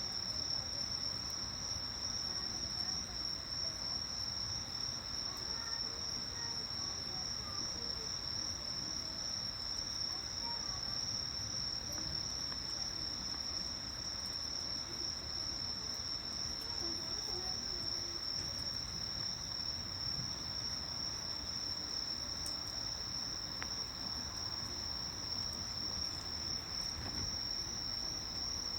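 Chorus of insects calling in one continuous high-pitched trill. A small wood fire gives a few faint pops underneath.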